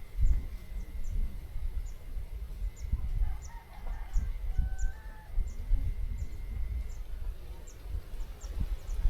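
A rooster crowing faintly about three and a half seconds in, over a low, uneven rumble.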